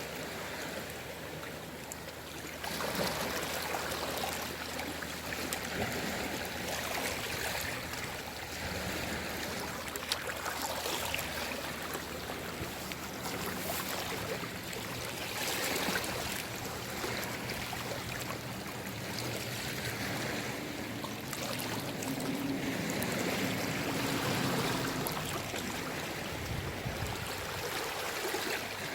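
Small sea waves washing gently onto the shore, a steady wash that swells and eases every few seconds, with faint trickling and small clicks.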